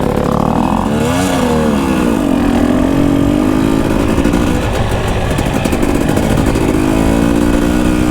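Dirt bike engine pulling away on the trail: it revs up about a second in, drops back, then runs at a fairly steady pace under load.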